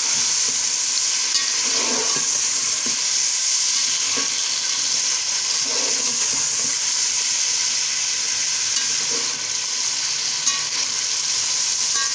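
Potato chunks, beef and tomatoes sizzling steadily in hot oil in a metal pot while being stirred with a spatula, which scrapes and knocks against the pot, with a couple of sharp clicks.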